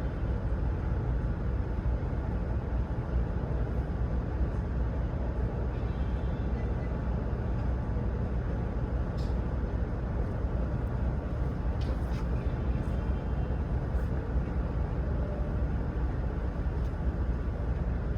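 Truck engine running with a steady low rumble, even and unchanging, with a couple of faint ticks.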